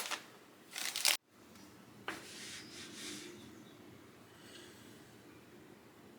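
Brief rustling of something being handled, cut off abruptly about a second in, then a sharp click and a little faint rustling, settling into quiet room tone.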